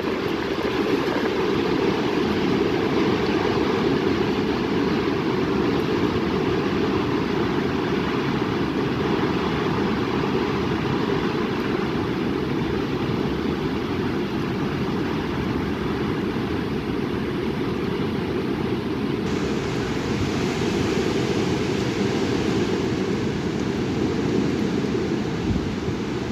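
Strong wind blowing steadily into the microphone, a continuous loud noise that changes little.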